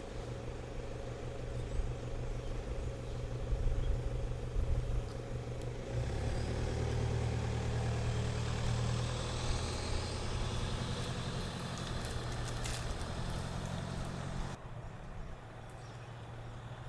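Car engine running at a low, steady hum, louder from about six seconds in and dropping away abruptly near the end.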